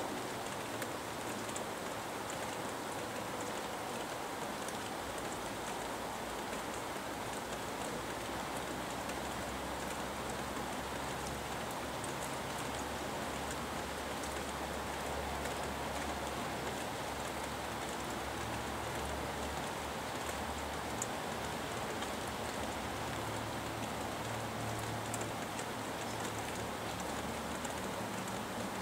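Steady rain falling on trees and surfaces, a constant hiss with scattered sharp drip ticks. Under it runs a low rumble of distant highway traffic that swells and fades.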